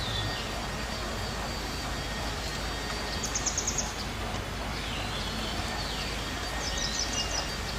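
Birds chirping: a quick run of short high notes about three and a half seconds in and again near the end, with a few sweeping calls between, over a steady background hiss.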